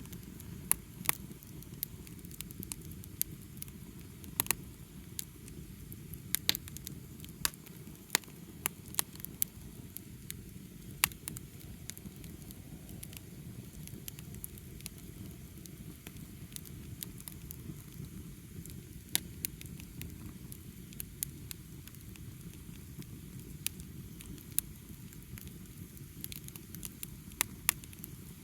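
Wood bonfire burning, with irregular sharp crackles and pops over a steady low rush.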